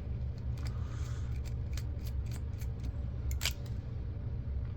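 Scattered small, sharp clicks and ticks of hand tools against the camcorder's plastic and metal parts during disassembly, the loudest about three and a half seconds in, over a steady low hum.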